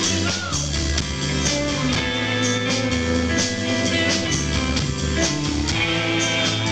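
Rock band playing live without vocals: electric guitar notes over a steady bass line and drums with cymbals.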